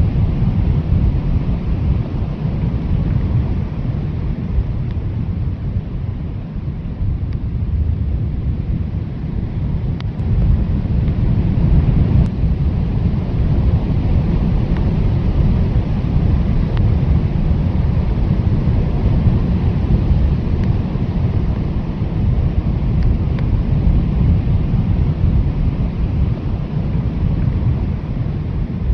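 Strong blizzard wind blowing steadily with a deep rumble, swelling and easing in gusts.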